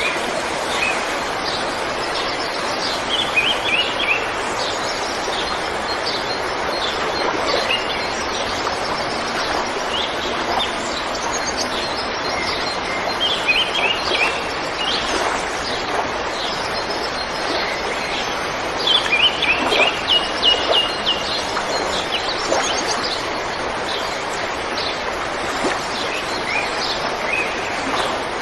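River water flowing steadily, with small birds chirping over it; several times a bird breaks into a short trill of quick repeated notes.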